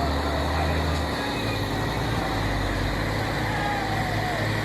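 Heavy truck engine running in roadside traffic on a steep hill climb, its low drone shifting to a different pitch about a second in.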